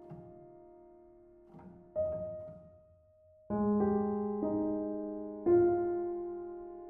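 Slow solo piano music: sustained notes and chords struck every second or two and left to ring and fade.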